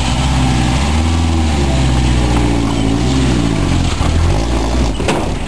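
Subaru station wagon's flat-four engine revving up and down under load as it crawls over rock, with a knock near the end.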